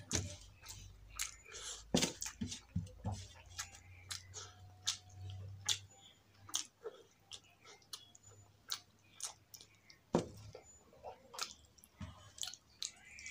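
Close-up wet chewing and mouth clicks of a person eating rice and potato curry by hand, in an irregular run of short sharp smacks.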